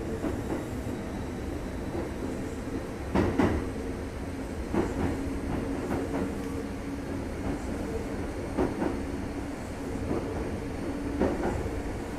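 Kintetsu 2430 series electric train running, heard from inside the car: a steady rumble with a faint hum, and a few sharp knocks of the wheels over rail joints at uneven intervals, two close together a few seconds in.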